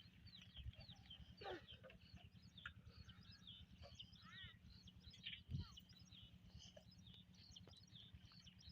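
Faint birdsong: many short chirps and calls, over a steady low pulsing rumble, with one low thud about five and a half seconds in.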